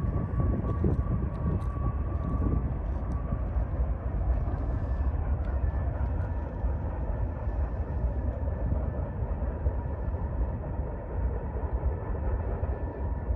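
Freight train rolling by, a steady low rumble with a faint thin tone that fades out about three seconds in.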